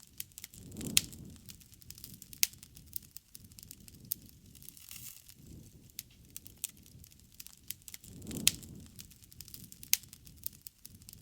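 Wood bonfire crackling: irregular sharp pops and snaps of burning wood, a few of them much louder. Under them the flames make a soft low noise that swells twice, about a second in and again about eight seconds in.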